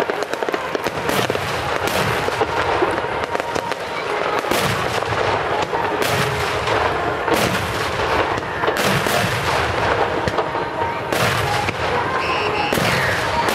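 Fireworks display: aerial shells bursting in a steady string of bangs, about one every second or two, over continuous crackling.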